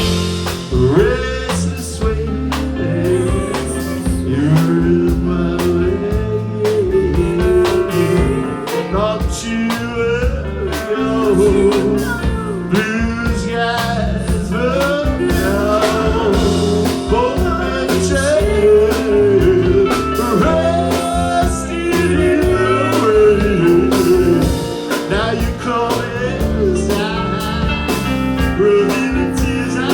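Live blues-rock band playing with bass, drums and guitar chords, with a bending melodic lead line over them.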